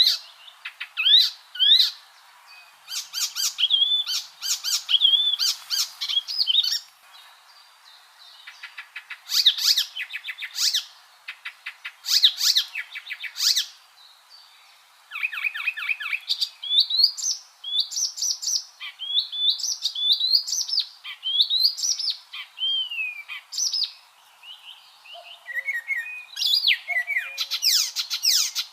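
Icterine warbler singing: a fast, varied song of rapid chattering runs, rising whistled slurs and harsh notes, delivered in bursts of a second or two with short pauses between.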